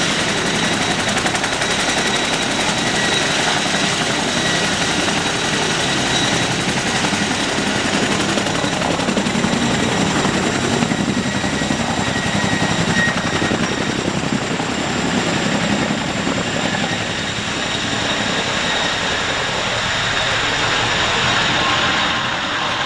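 Helicopter running: steady turbine and rotor noise with a high whine held throughout.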